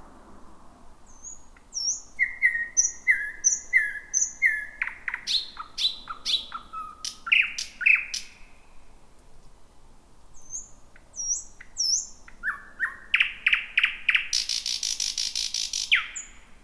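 Thrush nightingale singing two song phrases. Each opens with a run of repeated two-part whistled notes and breaks into sharp clicks; the second ends in a fast, dry rattle near the end.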